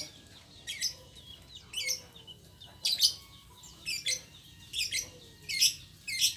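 Caged birds chirping: about seven short bouts of sharp, high chirps, roughly one a second.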